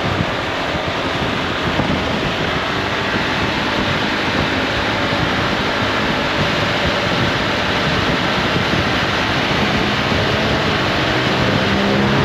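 Wind rushing over the helmet microphone while riding a Honda ADV 350 scooter, its single-cylinder engine under the noise. Near the end the engine tone comes through and climbs as the scooter speeds up.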